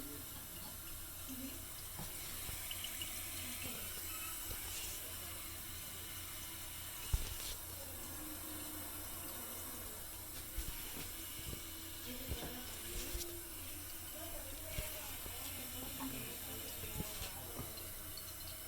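The fill valve of a 2008 Kohler Kelston toilet tank gives a steady hiss of running water as the tank refills. There is a sharp knock about seven seconds in and a few lighter knocks later.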